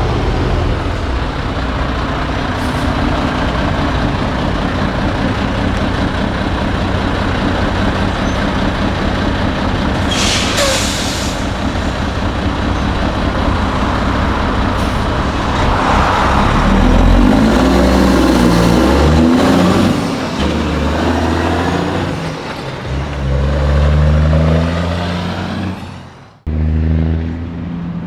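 Heavy diesel semi trucks running as they pull out, with a short air-brake hiss about ten seconds in. In the second half a truck engine revs up repeatedly through its gears, getting louder, before the sound cuts off suddenly near the end.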